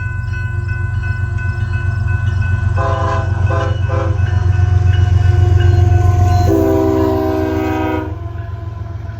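Diesel freight locomotives rumbling as a slow Canadian Pacific manifest train approaches and passes, growing louder. The locomotive's multi-tone air horn sounds three short blasts about three seconds in, then a long blast that cuts off suddenly about eight seconds in.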